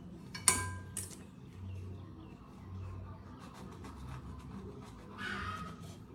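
Kitchenware being handled: a sharp clink with a short ring about half a second in, a lighter clink a moment later, and a brief rustle near the end.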